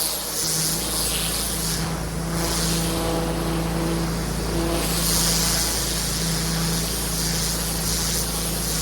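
Pressure washer engine running steadily under the hiss of the water spray on paving. The low engine hum sets in just after the start, and the spray hiss swells and fades every second or so.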